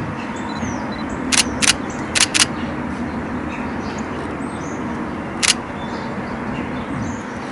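DSLR shutter firing five times: two quick pairs of shots about one and a half and two and a half seconds in, then a single shot about five and a half seconds in. A steady background hum runs underneath, with faint bird chirps.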